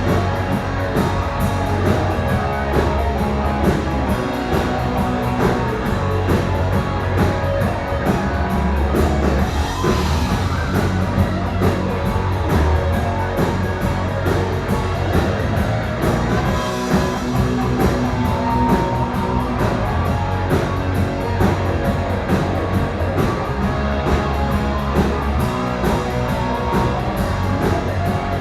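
Rock music with guitar and drum kit playing steadily and loud.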